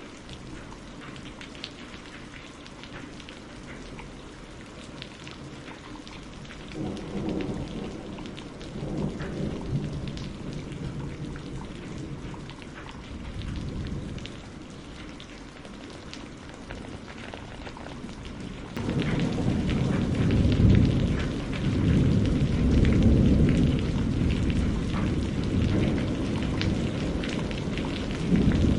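Steady rain with scattered drops ticking. A low thunder rumble swells and fades about a quarter of the way in. About two-thirds of the way through, a much louder rolling thunder sets in suddenly and rumbles on.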